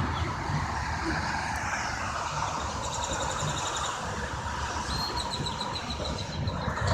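Steady outdoor noise of vehicles running, a continuous rumbling hiss, with two short, rapid, high-pitched chirping trills about three and five seconds in.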